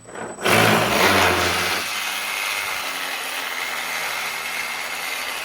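Electric motor driving a 3D-printed gearbox. It starts suddenly about half a second in, is loudest for the first second or so, then runs at a steady speed with a steady whine.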